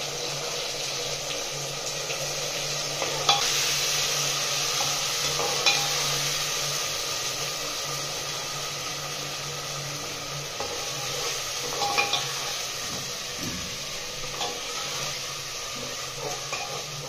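Ground spice paste sizzling in hot oil and fried onions in an aluminium pressure cooker, stirred and scraped with a steel ladle. The ladle knocks sharply against the pot a few times.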